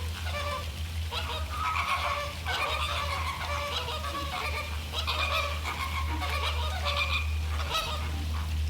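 A flock of American flamingos honking: many short, goose-like calls overlapping continuously, over a steady low hum.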